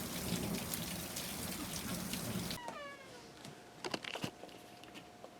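Rain and hail pattering down with many small clicks, cut off suddenly a little past halfway. Then, in a quieter spot, one short falling animal call, followed by a few sharp knocks.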